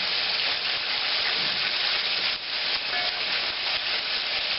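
Chicken pieces frying in hot grease in a pan: a steady sizzle, dipping briefly about halfway through.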